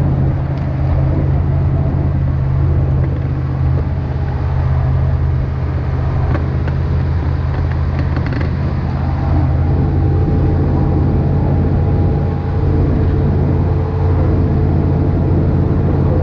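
Steady engine hum and road noise inside a moving vehicle.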